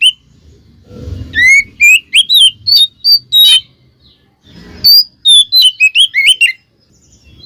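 Oriental magpie-robin singing loud, quick phrases of varied whistled notes that slide up and down, in two bursts with a short pause between. A dull low rumble sits under the start of each burst.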